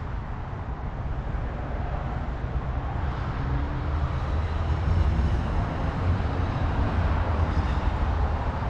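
Road traffic going by: a steady rumble of vehicles that swells a little toward the middle and eases off again.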